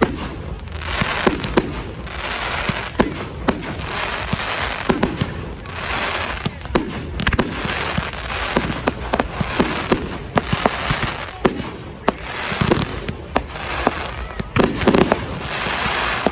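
Aerial fireworks going off: many sharp bangs and cracks come in quick succession over repeated swells of hissing crackle. A couple of deeper booms come near the end.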